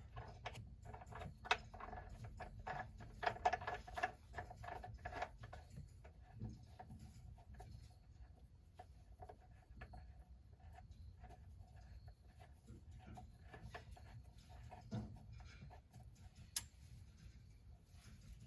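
Faint, irregular metallic clicks and taps of a hand tool on the oil pan drain bolt as it is threaded back in and snugged up, busiest in the first few seconds and sparser after.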